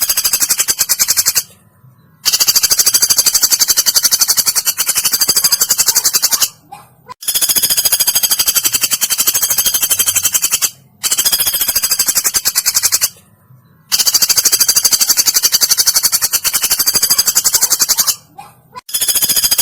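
Woodpecker rattle calls: very rapid, high-pitched note trains, each lasting a few seconds, repeated five or six times with short breaks between them, as played in a masteran recording for training songbirds.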